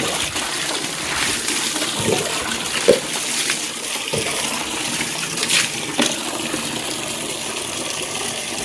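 Water pouring and splashing over a motorcycle as the shampoo and dirt are rinsed off, a steady rush with a few short knocks.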